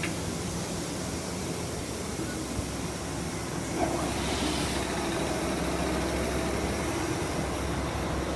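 Steady onboard noise of a JR West 201 series electric train car: a low hum under a mechanical drone that grows a little louder about four seconds in.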